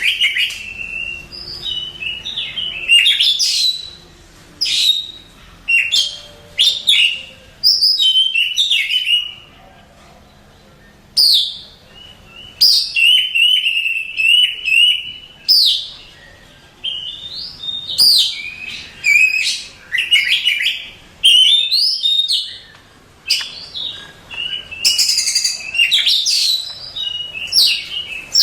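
Oriental magpie-robin (kacer) singing: loud, varied whistled phrases with quick rising and falling glides and rapid trills, delivered in short bursts with brief pauses between them.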